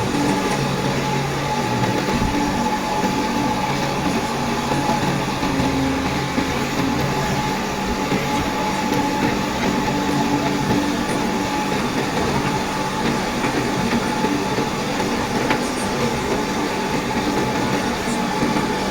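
Heavy vehicle running steadily, with a constant whine over a low, shifting hum.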